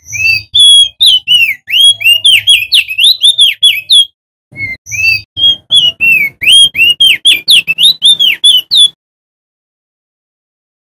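Male crested white-eye (opior jambul) singing loudly: two long bouts of rapid, varied whistled notes, each about four seconds long, with a short break between them. The singing stops about nine seconds in.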